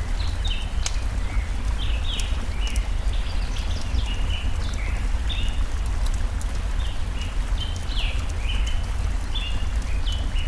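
Small birds chirping busily in short, falling notes over a steady low rush of stream water, with a few sharp crackles from a wood fire.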